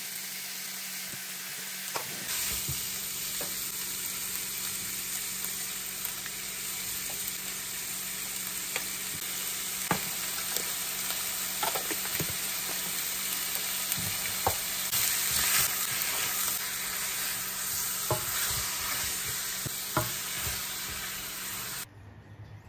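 Chicken drumsticks and chopped onion sizzling in a hot stainless-steel frying pan, with scattered knocks and scrapes of a silicone utensil against the pan as the pieces are turned. The sizzle cuts off abruptly just before the end.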